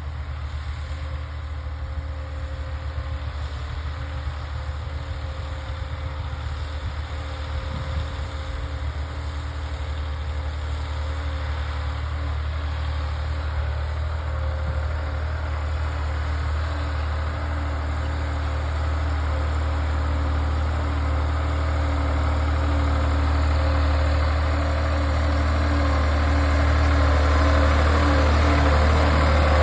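Tractor engine running steadily while pulling a laser land leveller, getting gradually louder over the stretch.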